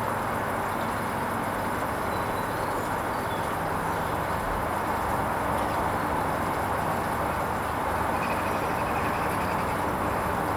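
Hoover Vision HVP16 washing machine partway through its Silks 30 wash programme, giving off a steady noise of water and machine.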